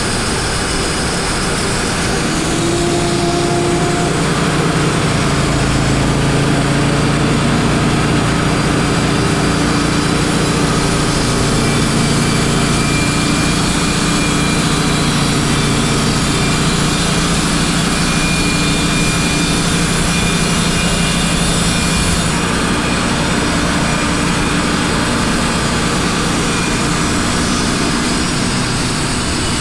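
Wood-Mizer band sawmill running steadily, its engine under load as the band blade cuts through a pine log. The sound grows a little louder a few seconds in and holds, easing off slightly after about twenty seconds.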